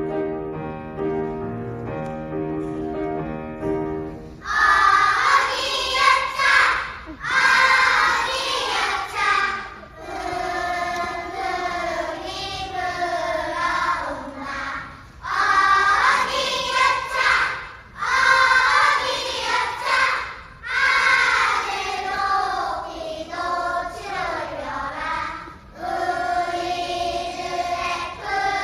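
Choir singing with piano accompaniment. The piano plays alone for about the first four seconds, then the voices come in and sing in phrases a couple of seconds long.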